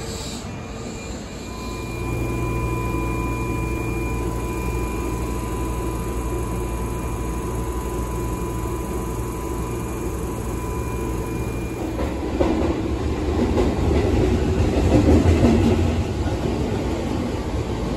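Keihan 8000 series electric train: a steady low hum with faint steady whining tones while it stands with its doors open, then from about twelve seconds in louder, rougher running noise that builds as the train moves off.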